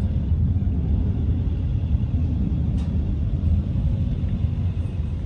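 A steady low rumble, with a faint click about three seconds in.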